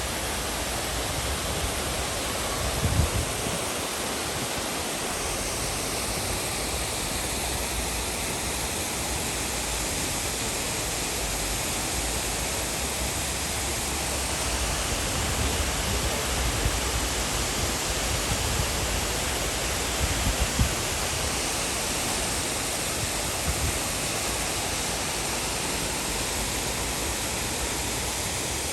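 Steady rushing roar of the Düden Waterfall, falling water heard at an even level, with a few brief low thumps about three seconds in and again around twenty seconds.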